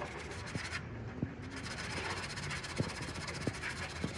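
Scattered light taps and clicks, about five at irregular intervals, over a steady background hum and hiss.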